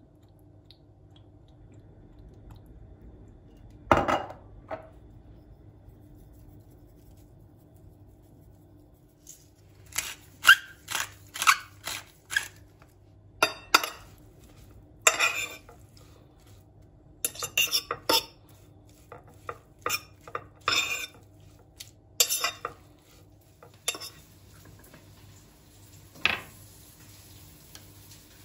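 Dishes and cutlery clinking and knocking: one thump about four seconds in, then a long run of sharp clinks of utensils against dishes, with a faint steady hum underneath.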